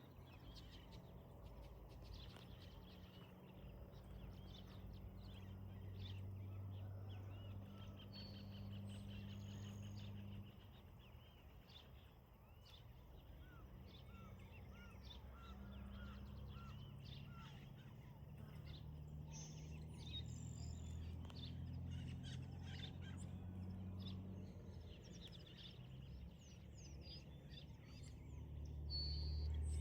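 Many birds chirping and calling over a low, steady rumble.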